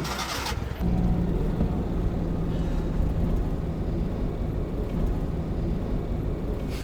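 A motor running steadily: a low rumble with a held hum that sets in about a second in.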